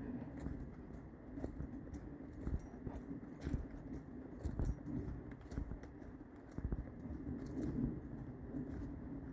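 Footsteps of a person walking briskly, with irregular rustling and small clicks close to the microphone.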